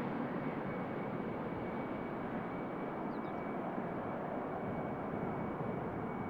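Jet airliner engines running: a steady rushing noise with a faint thin high whine held throughout.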